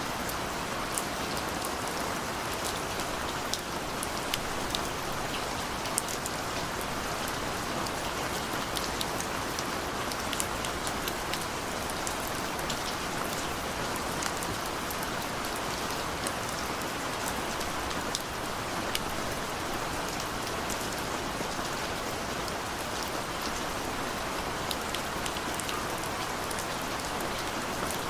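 Steady rain falling, a continuous hiss with many single drops ticking distinctly on a surface.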